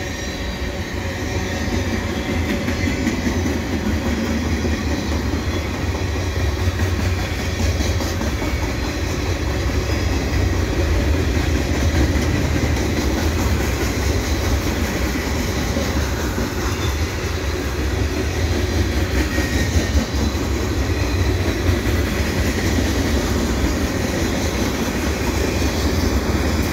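Freight cars of a Canadian National mixed freight rolling past on steel wheels, a steady rumble with no break or change.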